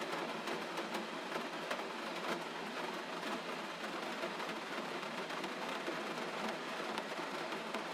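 Gentle rain falling steadily: an even hiss with many small scattered drop ticks.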